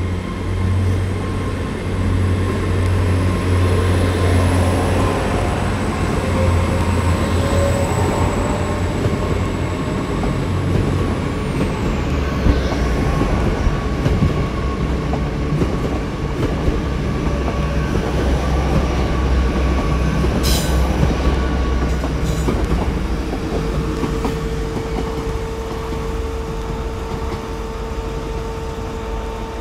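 A GWR Class 802 bi-mode IET moving along the platform under diesel power, with a steady low drone from its underfloor engines and a high whine. About twelve seconds in, both the whine and the drone drop in pitch. A single sharp click comes a little after twenty seconds.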